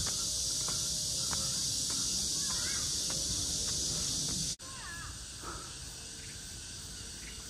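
Woodland ambience: a steady high-pitched insect drone with scattered short bird calls. The sound drops suddenly about four and a half seconds in and carries on quieter.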